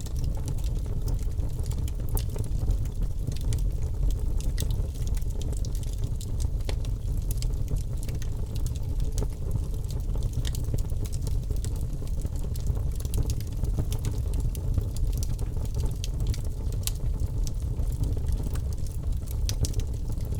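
Campfire burning: a steady deep rumble of the flames with frequent sharp crackles and pops from the burning wood.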